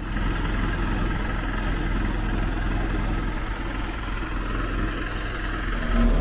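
Cessna 208B Caravan's Pratt & Whitney PT6A turboprop engine and propeller running steadily on approach. The drone starts abruptly at the beginning.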